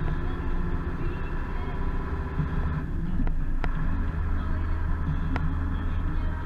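Zetor Proxima 80 tractor's four-cylinder diesel engine running steadily, with a few sharp clicks near the middle; the low engine note changes slightly about four seconds in.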